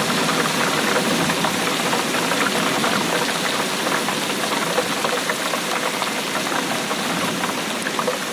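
Steady rainfall: an even hiss with a dense, irregular patter of drops.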